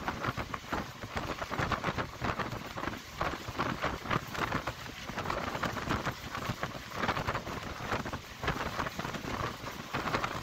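Moving passenger train heard from inside the carriage at an open barred window: a steady rush of wheels running on the rails, thick with dense, irregular rattling and clatter.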